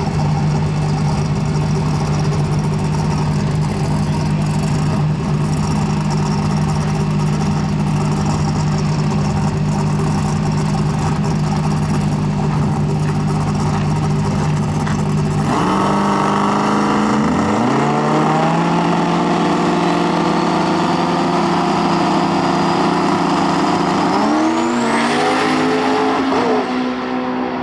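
Drag race car engine holding a steady high rev. About halfway through, the note changes abruptly as the car launches and pulls away, with the engine pitch climbing and stepping through gear changes. A rising high whine comes in near the end.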